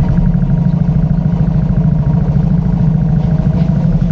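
A vehicle engine running steadily: a low thrum with a fast, even pulse.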